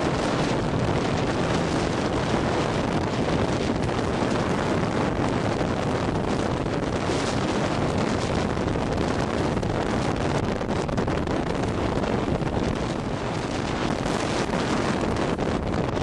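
Storm-force blizzard wind buffeting the microphone in a steady, loud rush, with waves on the lake beneath it.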